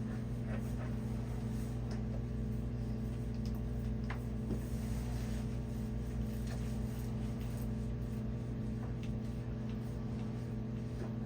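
A steady low machine hum, with a few faint scattered clicks and taps over it.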